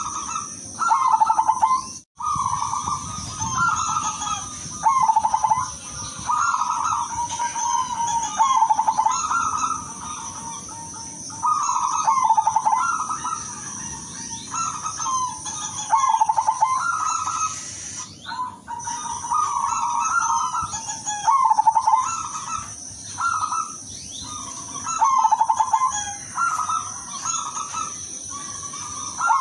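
Zebra dove cooing: its stuttering, trilled coo phrase repeated every second or two over a steady high-pitched whine. The sound drops out briefly about two seconds in and again about two-thirds of the way through.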